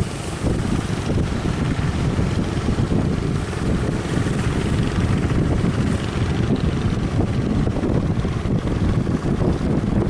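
Strong wind buffeting the microphone over a steady low rumble of fishing-boat engines.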